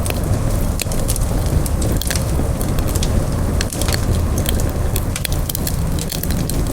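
Wood campfire burning, with frequent irregular sharp crackles and pops over a steady low rushing noise.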